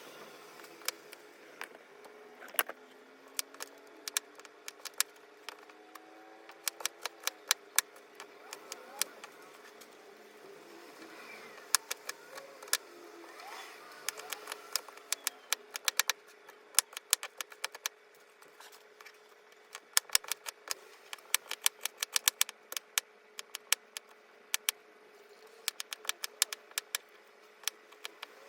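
Many sharp, irregular clicks and taps of small hard objects over a faint steady hum, thicker in the second half.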